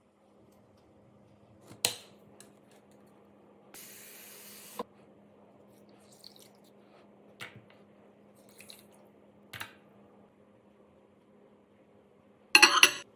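Kitchen handling sounds: scattered clinks and knocks of dishware, about a second of pouring or running water, and a loud clatter near the end, over a faint steady hum.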